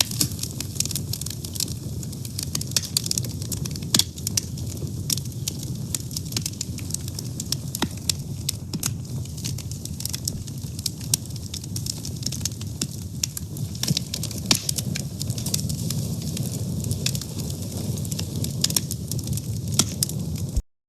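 Fire burning: steady crackling with frequent sharp pops over a low rumble of flames. The sound cuts out abruptly for a moment near the end.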